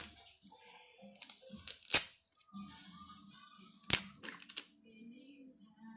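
Small plastic toy pieces and packaging being handled: scattered light clicks and taps, with two sharp snaps about two seconds in and near four seconds.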